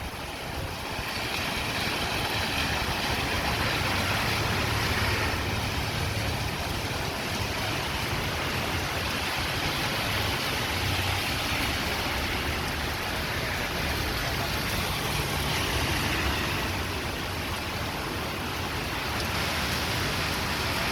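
Strong wind blowing steadily, a dense rushing noise with a low rumble underneath.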